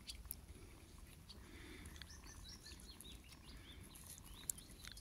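Faint bird chirps: a scattered run of short, high notes over quiet outdoor background noise, with one sharp click about four and a half seconds in.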